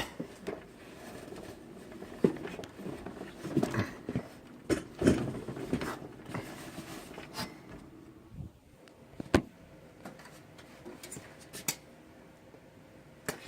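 Scattered knocks, clicks and rustling as a desktop computer case is carried and handled, with several sharp clicks spread through.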